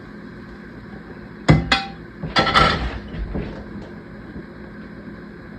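Utensil knocking and clattering against a frying pan as roasted green beans are lifted out, a few sharp clacks between about one and a half and three seconds in.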